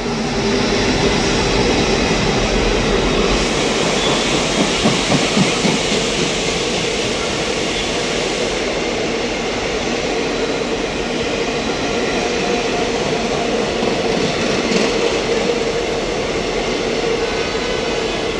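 A train running on rails: a steady, loud noise of wheels and coaches that keeps on evenly.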